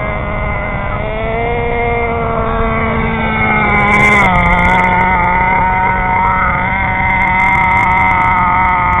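Nitro RC cars' small two-stroke glow-fuel engines running with a steady buzzing whine. About four seconds in, the pitch dips slightly and the sound grows a little louder.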